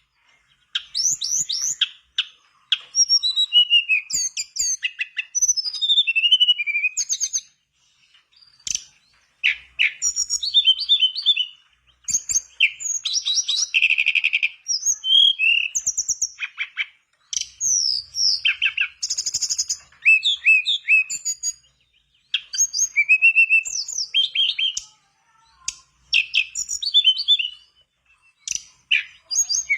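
Tledekan bakau singing vigorously: rapid, varied phrases of sweeping whistles and quick trills, delivered in bursts of one to three seconds with short pauses between them.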